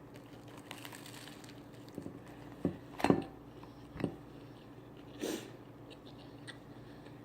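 Eating sounds close to the microphone: biting into and chewing a corned beef sandwich on toasted ciabatta, with a few short sharp crunches about three, four and five seconds in.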